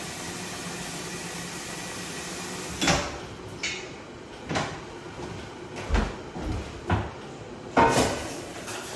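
A steady hiss for about three seconds, then a series of about six separate knocks and bumps, as of objects or doors being handled.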